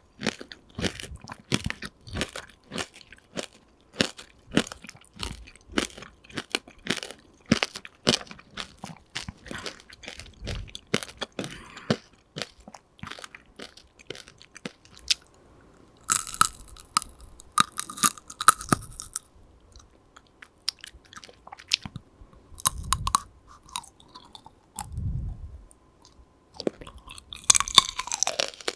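Close-up ASMR chewing of tanghulu: the hard sugar glaze on the fruit cracking and crunching between the teeth, in dense quick crackles at first and then sparser bites and chewing. The candy shell has gone slightly sticky from melting.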